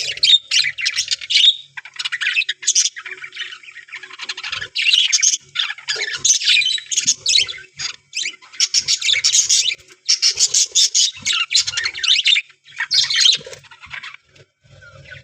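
A colony of budgerigars chattering and squawking: rapid, overlapping calls in clusters broken by short pauses, thinning out near the end.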